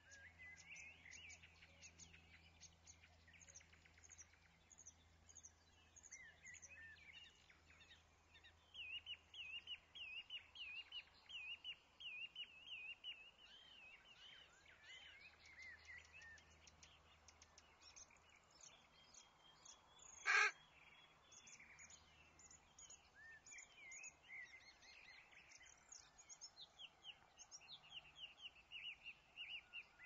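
Small birds chirping and twittering, with a dense run of quick chirps about a third of the way in. Two-thirds of the way through comes one short, loud, noisy call.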